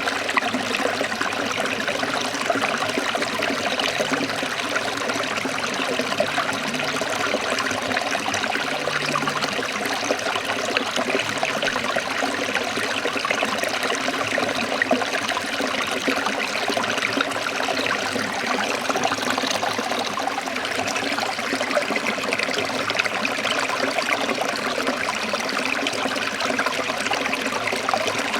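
Forest stream trickling and splashing over rocks in a steady, unbroken rush of water.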